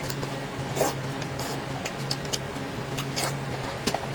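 Close-miked eating sounds: chewing with many small wet clicks and two louder slurps, one about a second in and one past three seconds, over a steady low hum.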